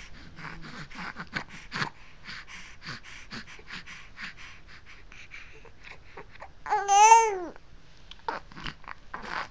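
A baby making noises: soft clicking mouth sounds and quiet babbling, with one loud high-pitched squeal about seven seconds in that rises and then falls.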